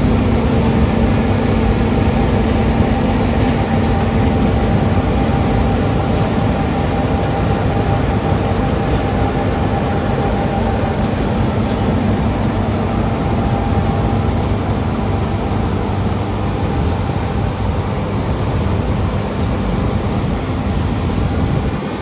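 Combine harvester running steadily while cutting and threshing wheat: a dense, unbroken machine drone with a few constant hum tones. There is a lot of straw in the crop, which makes the threshing hard work.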